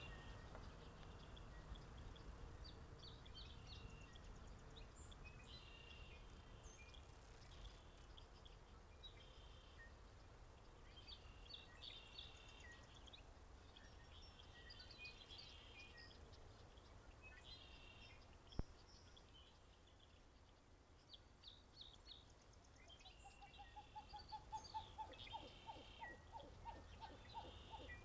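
Faint birdsong around a marsh pond: short, high song phrases repeating every couple of seconds over a low wind-like rumble. One sharp click about two-thirds of the way through, and near the end a fast run of lower repeated calls.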